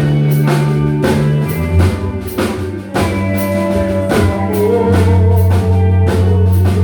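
Live band music: drum kit, bass and guitar playing a song, with regular drum hits and sustained chords.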